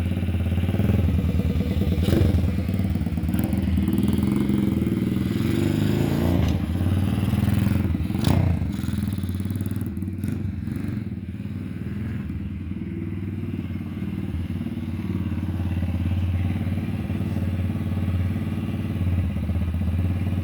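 X Pro Hawk 125cc dirt bike's single-cylinder four-stroke engine running steadily, with a few short knocks.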